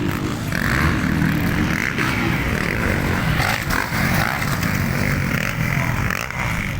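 Motocross dirt bikes racing, their engines revving up and down.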